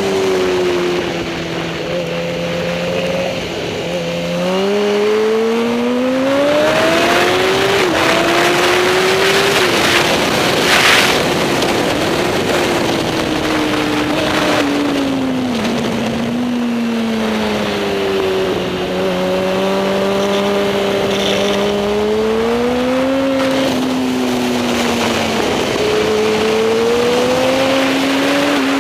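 Superbike racing motorcycle engines at high revs, the pitch rising and falling over several seconds as the bikes accelerate and slow around the circuit. There is a short burst of hiss about eleven seconds in.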